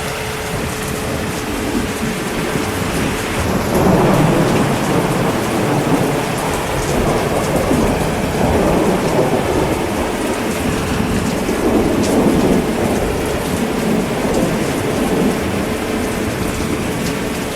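Steady heavy rain, with a long roll of thunder rumbling through it from about four seconds in.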